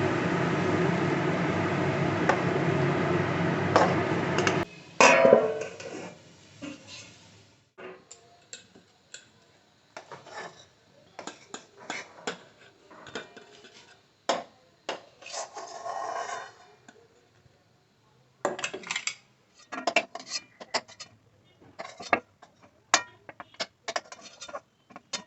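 Metal utensils clinking and scraping against a cooking pot in scattered knocks and short scrapes. This follows a steady loud noise that cuts off suddenly about five seconds in.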